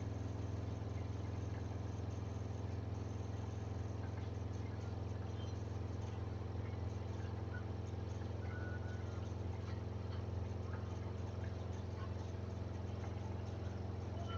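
Samsung front-loading washing machine's drum spinning at high speed in its final spin with a load of bedding and blankets: a steady, even motor and drum hum that holds its pitch.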